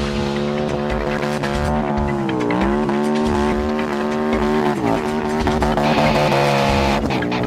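Car engine with a sports exhaust running at high, steady revs, its pitch dipping and climbing back about two and a half seconds in, with music underneath.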